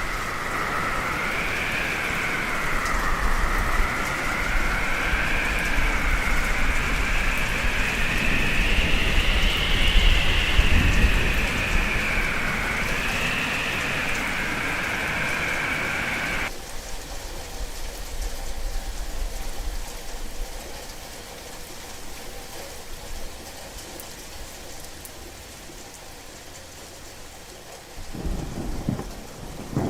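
Howling wind sound effect, a wavering whistle that slowly rises and falls in pitch over a low rumble. About sixteen seconds in it cuts off abruptly to steady rain, and a low rumble of thunder swells near the end.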